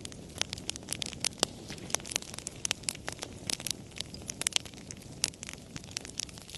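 Wood fire crackling: frequent irregular sharp pops and snaps, several a second, over a low steady rumble of the burning.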